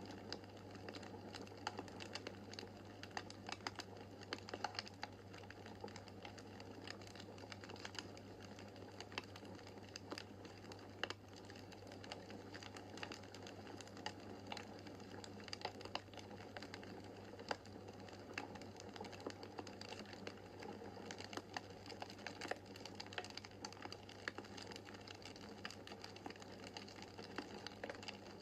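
Wood fire crackling in a fireplace: many small irregular pops and clicks, with a steady low hum underneath.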